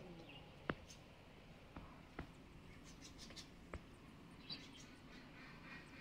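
Faint, high-pitched chirps of small birds, with a few sharp clicks, the loudest about a second in.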